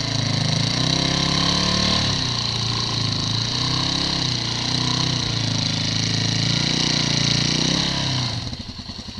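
Motorcycle engine running on a steep dirt descent, its pitch rising and falling with the throttle, under a steady rush of noise. About eight seconds in the sound drops abruptly to a quieter, evenly pulsing engine note.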